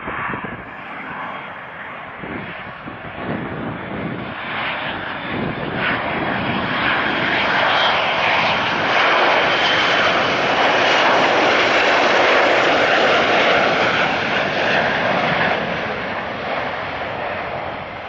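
Jet airliner flying past, its engine noise swelling over several seconds, loudest in the middle with a faint high whine, then fading away.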